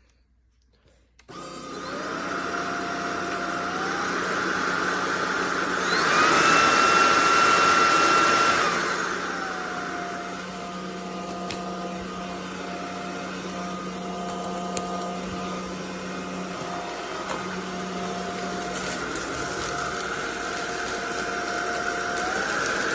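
SunSare X11 cordless stick vacuum switched on about a second in, running with a steady motor whine. Its pitch steps up for about three seconds, then drops back and runs steadily again.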